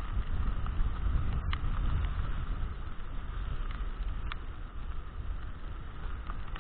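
Strong wind buffeting the microphone during a heavy rainstorm: a steady, fluctuating low rumble with a few scattered sharp clicks.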